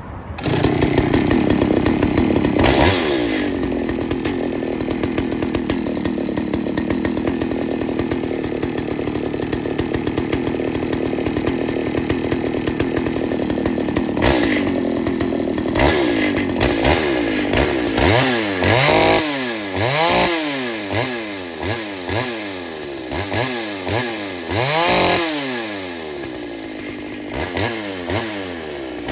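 Two-stroke Pioneer Farmsaw chainsaw running at high speed, steady for a long stretch, then revved up and down about once a second for several seconds before settling again.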